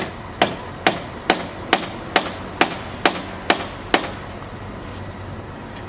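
Hand hammer struck in a steady series of about ten sharp blows, a little over two a second, that stops about four seconds in.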